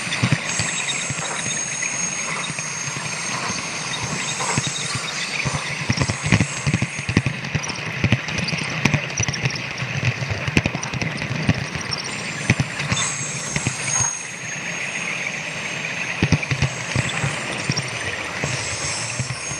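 Model train running on layout track: fast, irregular clicking of small wheels over the rail joints over a steady low motor hum, with a high thin whine that fades in and out, likely from the onboard sound car's speaker.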